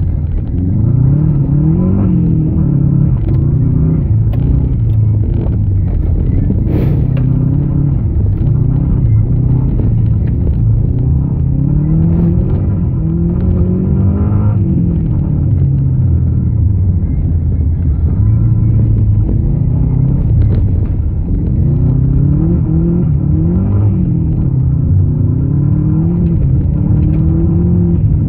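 Rally car engine heard from inside the cabin, its revs repeatedly climbing and then dropping as it is driven hard through the gears, over a steady road rumble. A few sharp knocks cut through, the clearest about 7 and 14 seconds in.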